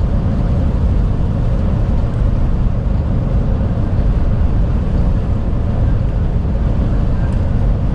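Strong crosswind rushing and buffeting around a moving truck's cab, heard from inside as a loud, steady low rumble mixed with the truck running.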